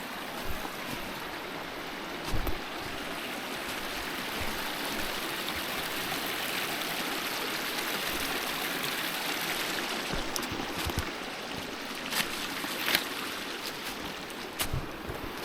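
Small mountain stream running steadily, with a few soft knocks that come and go.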